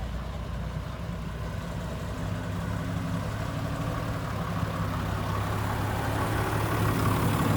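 A heavy vehicle engine idling steadily, growing gradually louder.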